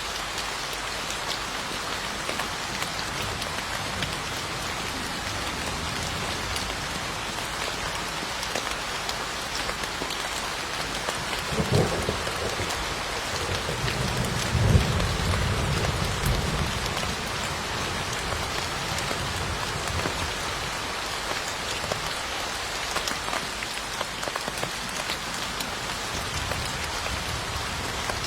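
Steady heavy rain falling. Just before the middle a sharp crack of thunder sounds, followed a couple of seconds later by a low rumble lasting about three seconds before the rain alone returns.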